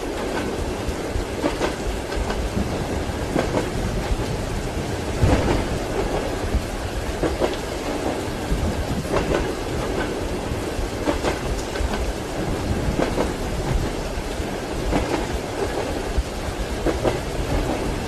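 Steady rain and thunder mixed with train wheels clacking over rail joints, a pair of knocks about every two seconds. A louder rumble of thunder comes about five seconds in.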